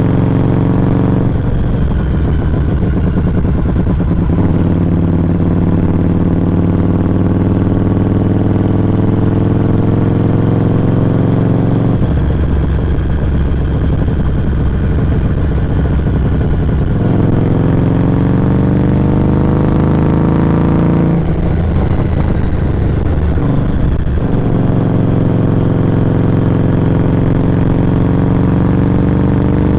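2019 Harley-Davidson Street 500's V-twin heard close at its Firebrand Loose Cannon slip-on muffler while riding. The exhaust note climbs steadily in long pulls, and its pitch falls and climbs again several times.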